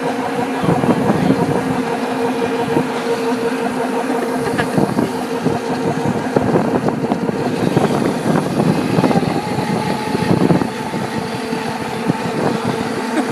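Mini bike's small engine running steadily at a held speed.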